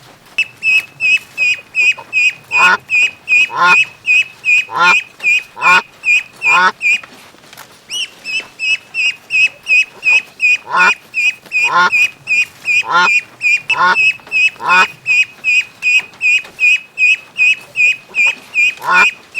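Ducks calling: a fast, even run of short high peeping calls, about two or three a second, with lower quacks roughly once a second over them. The peeping breaks off briefly about halfway through.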